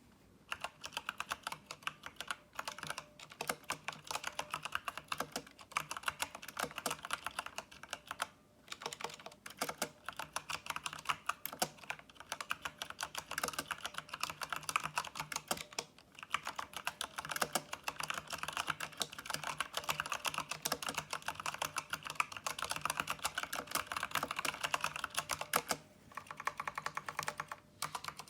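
Fast continuous typing on a mechanical keyboard with brown (tactile) switches, the Micronics MANIC ZK9 Edge: a dense run of clacking keystrokes, broken by brief pauses about a third of the way in, halfway through and near the end.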